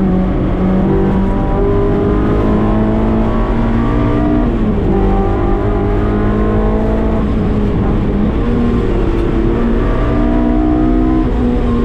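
Honda K24 four-cylinder engine in a K-swapped Mazda MX-5 Miata running hard at speed, its note climbing and falling several times through the gears, over a steady low road and wind rumble.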